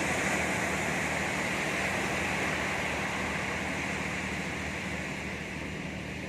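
Sea surf washing on the shore: a steady rushing that slowly dies away toward the end.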